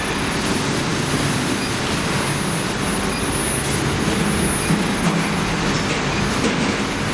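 Induction melting furnace for copper and brass running: a steady, loud mechanical noise with a thin, high, constant whine over it.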